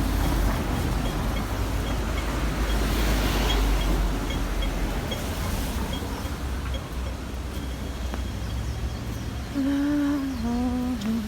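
Street noise in wind and rain: a steady low rumble of traffic and wind on the microphone, easing after about five seconds, with a faint pip repeating three or four times a second. A person hums briefly near the end.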